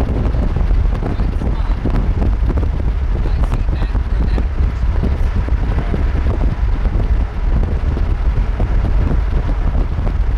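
Strong wind buffeting the microphone: a loud, continuous low rumble that surges and eases irregularly with the gusts.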